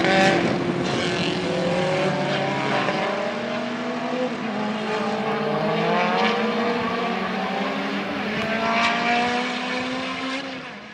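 Race car engines running hard on a circuit, their pitch climbing in repeated long sweeps as they pull through the gears, with more than one engine note overlapping. The sound fades out at the very end.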